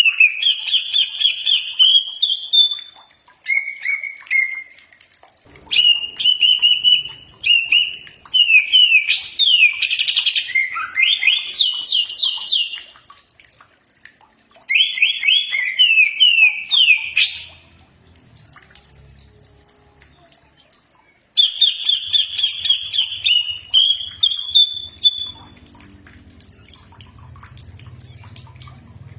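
Cucak ijo (green leafbird) singing in bursts of rapid, varied whistles, trills and slurred glides, with short pauses between phrases. A faint low hum fills the pauses.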